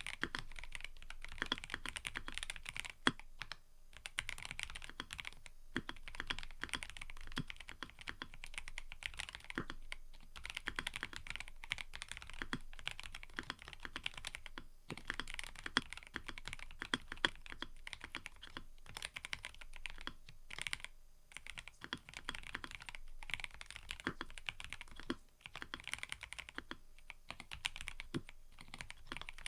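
Fast, continuous typing on a mechanical keyboard, a dense run of key clicks broken by a few brief pauses.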